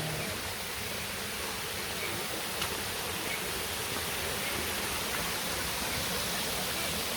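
Steady rushing of a waterfall and creek running full after heavy overnight rain.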